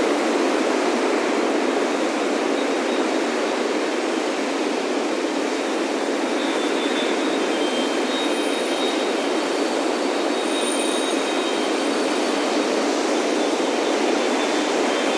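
Steady wash of ocean surf breaking on a beach, with faint high wind-chime notes ringing from about halfway through.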